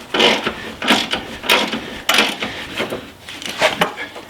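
Hand ratchet wrench worked in short repeated strokes, about one every half second, undoing a suspension bolt on a car.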